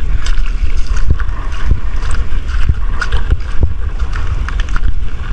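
Strong wind buffeting the microphone: a loud, uneven low rumble that rises and falls in gusts, with a few brief knocks.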